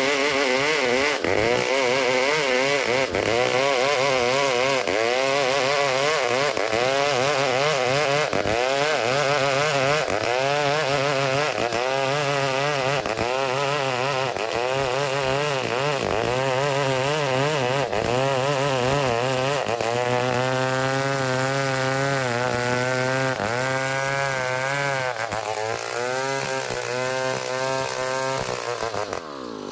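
Chainsaw running near full throttle while sawing ulin (Bornean ironwood) lengthwise into a beam, its engine pitch wavering up and down over and over as the cut loads it. The engine drops off just before the end.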